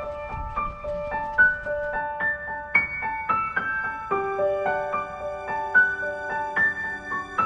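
Background music: a gentle piano melody of single notes played at a steady, unhurried pace, with lower notes entering about four seconds in.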